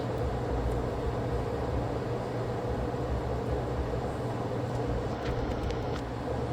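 Steady machine hum with a low drone and a few faint ticks.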